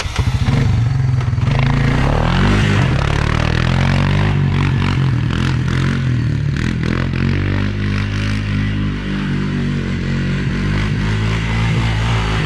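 Farm quad bike engine running and revving up near the start, then holding a steady pace, with clattering rattles throughout.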